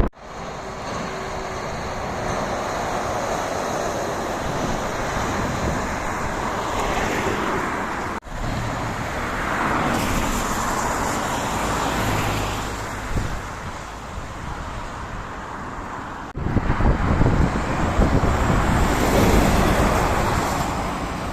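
Road traffic passing on a rain-wet road, cars swelling in and fading out, with wind rumbling on the microphone. The sound drops out for an instant about 8 and 16 seconds in.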